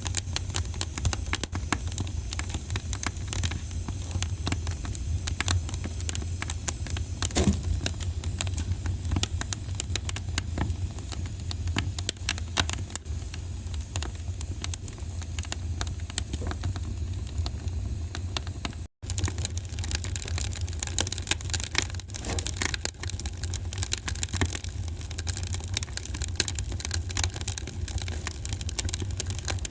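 Wood fire crackling and popping steadily, many small irregular cracks over a constant low rumble. The sound drops out for an instant about two-thirds of the way through.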